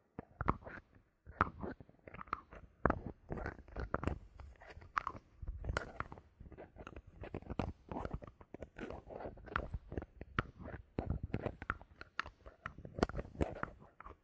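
Bottle caps handled close to the microphone: a dense, irregular run of sharp clicks, taps and crackles.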